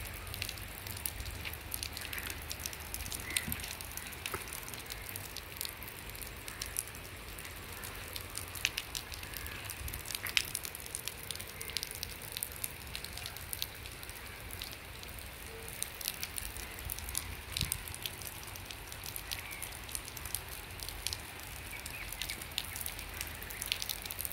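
Steady rain falling on the river and bank: an even hiss with frequent sharp ticks of drops landing close by.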